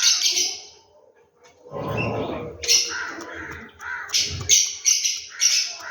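Birds calling: a series of short, harsh calls, about half a dozen, with softer chirps between them and a lower sound about two seconds in.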